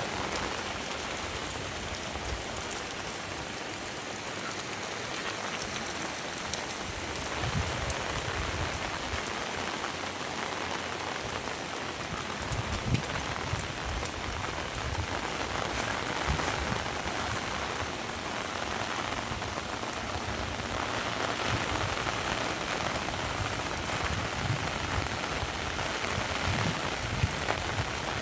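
Heavy rain falling steadily, a dense even hiss, with scattered low thuds and sharp drip ticks that grow more frequent as it goes on.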